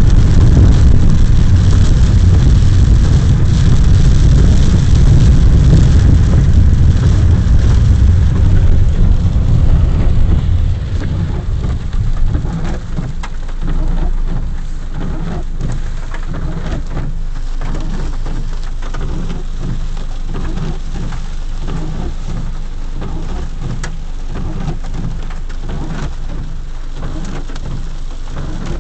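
Heavy rain falling with a low rumble. The sound is loud for the first ten seconds or so, then drops to a steadier, quieter level.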